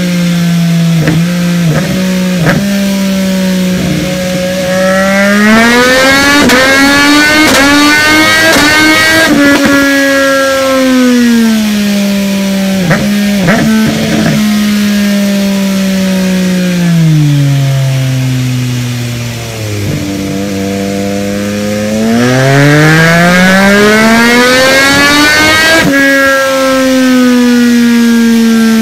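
MV Agusta F3 800's inline three-cylinder engine with a full Arrow titanium exhaust, run hard on a chassis dyno. The note holds, climbs smoothly in a high-rev pull, falls back to low revs, then climbs again in a second pull that cuts off sharply near the end. Two brief clusters of sharp cracks come about a second in and again around thirteen seconds in.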